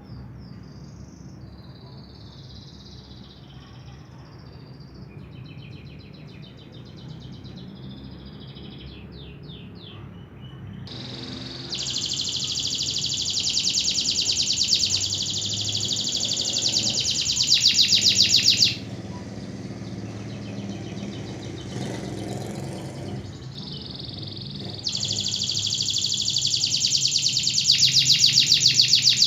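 Canary singing: soft, high twittering at first, then about ten seconds in a loud, very fast rolling trill held for some seven seconds, and another loud roll near the end. A steady low hum runs underneath.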